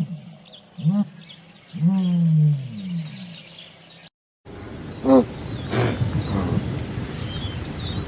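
Three low animal calls, each falling in pitch, the third the longest. After a sudden cut comes another clip with a steady background, one more short animal call and small birds chirping.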